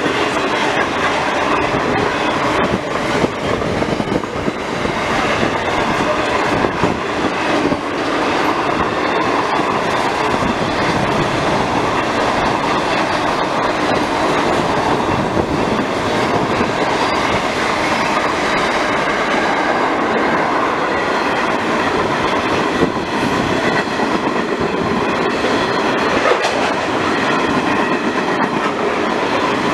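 Container freight train passing close by at speed: a loud, steady rush of wagon wheels on the rails, with clicks over rail joints.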